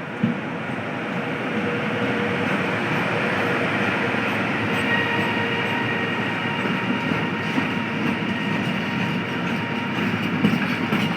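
A train running past on the rails: a steady rolling noise of wheels on track that builds over the first couple of seconds and then holds, with faint steady tones over it.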